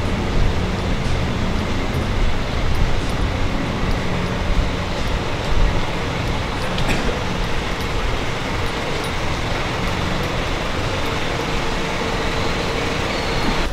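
Steady motor-vehicle engine and road noise, a continuous low rumble with a faint steady hum.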